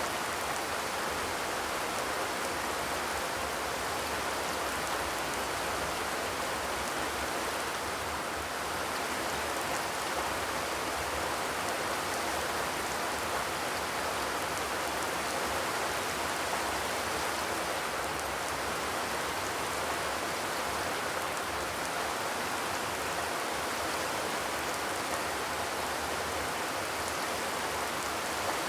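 Steady rain falling on a zinc (corrugated metal) roof, a continuous even patter, without thunder.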